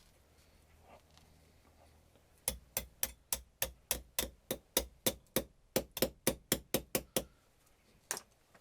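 A quick run of about twenty sharp knocks, four to five a second, lasting about five seconds, then one more knock near the end.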